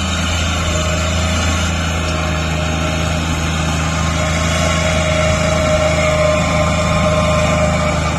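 Tractor's diesel engine running steadily with a low hum and a faint whine that rises slightly about halfway through.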